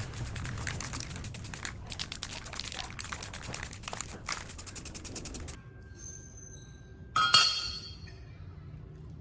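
Rapid mechanical clicking and rattling that stops abruptly, then a single metallic clank about seven seconds in that rings briefly.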